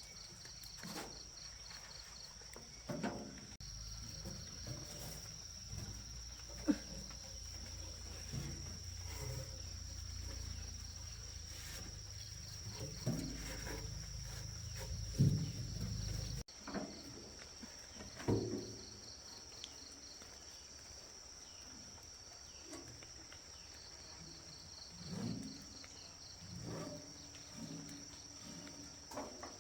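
Insects chirring steadily at a high pitch, with scattered short animal calls. A low rumble runs through the first half and cuts off suddenly past the middle.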